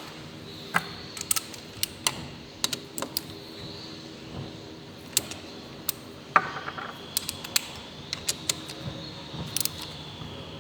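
Irregular sharp metallic clicks and taps of hand tools and small engine parts being handled during an engine rebuild, the loudest about six seconds in, over a steady low background.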